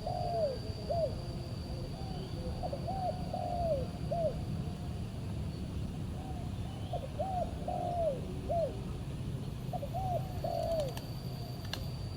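Spotted dove cooing: about four phrases of short, arched coos, each phrase a few notes long, repeating every two to three seconds.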